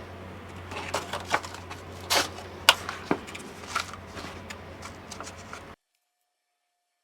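Rustling, crackling and light knocks of plant pots and soil being handled, over a low steady hum; the sound cuts off abruptly about six seconds in.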